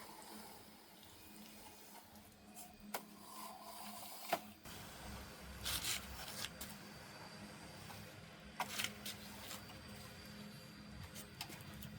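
Scattered short knocks and scraping noises over a faint steady hum, with the sharpest knock about four seconds in and longer scrapes around six and nine seconds.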